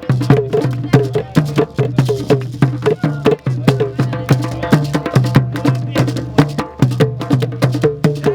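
Live West African drumming, djembe and talking drum, playing a fast, dense rhythm of sharp hand-drum strokes at several pitches. Some strokes slide in pitch.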